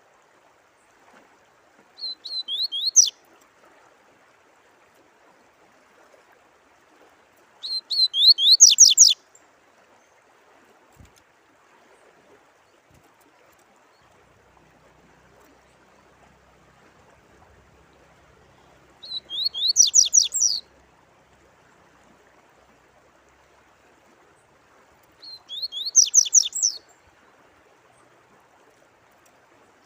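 A songbird singing four short phrases of rapid, rising high-pitched notes, each about a second or a second and a half long, over the faint steady rush of running water.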